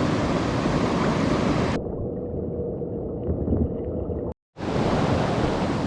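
Rushing water of a fast, high-running mountain stream as a steady noise. About two seconds in it turns muffled for a couple of seconds. It then cuts out for a moment and returns at full strength.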